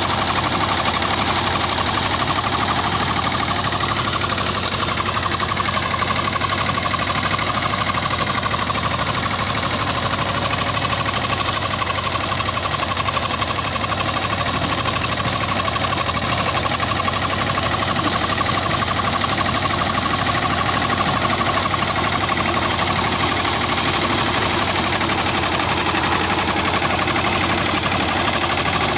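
Captain 200 DI mini tractor's diesel engine running steadily under work, a fast even firing rhythm with a whine over it.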